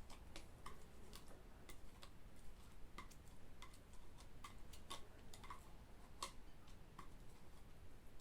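Faint, light clicks, roughly two a second and not quite evenly spaced, over a quiet background.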